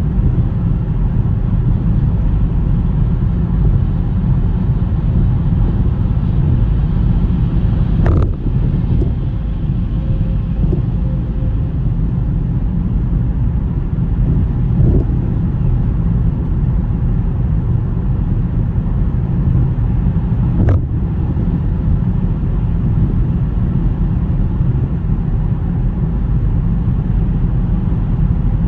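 Car driving on a snowy road: a steady low rumble of tyres and engine, with two brief knocks, about eight seconds in and again about twenty-one seconds in.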